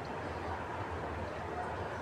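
Steady background hum and hiss, with no distinct event.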